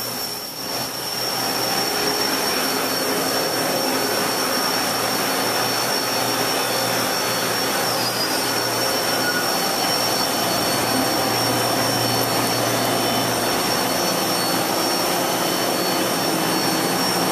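Steady whooshing machine noise with a constant high whine and a low hum, growing a little louder about a second in: a CNC vertical mill running.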